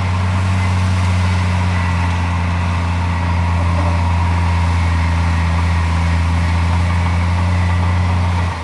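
Heavy diesel engine of earthmoving equipment running at a steady speed with a deep, even hum; the sound drops off abruptly at the very end.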